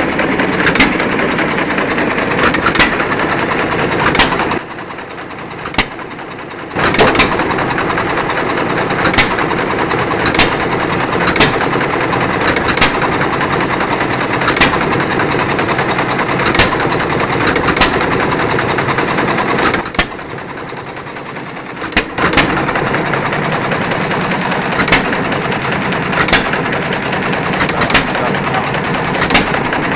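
1930 John Deere Model E single-cylinder hit-and-miss engine running, with a sharp firing bang about once a second over a steady clatter. Twice the clatter drops away for about two seconds.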